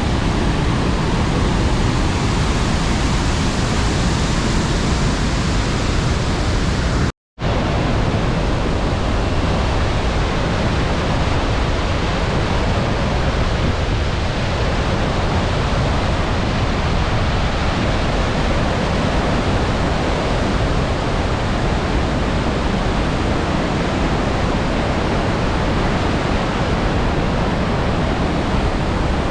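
Steady loud rush of water from the Iguaçu Falls, an even roar with no tones in it, broken once about seven seconds in by a fraction of a second of total silence.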